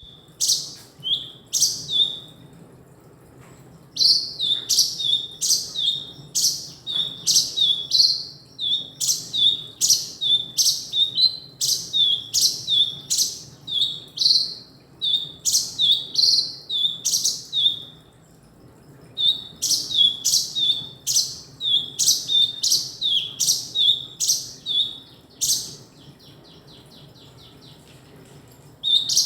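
Male kinoi bird singing: bouts of short, sharp chirps, about two a second, each dropping in pitch, broken by pauses of a couple of seconds. Near the end a fainter rapid trill.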